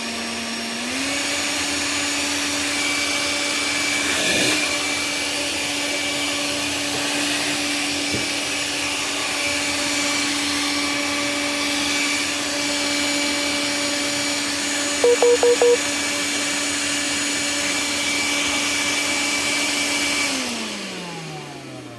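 Bosch GAS 18V-LI cordless 18 V vacuum cleaner motor switched to high speed: its whine steps up in pitch about a second in as it spins up, runs steady, then winds down with falling pitch near the end. Four short, louder tone blips come about fifteen seconds in.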